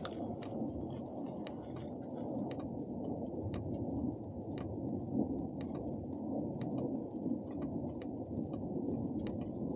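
Wind buffeting the camera microphone while riding a motorcycle: a steady low rumble with faint scattered ticks.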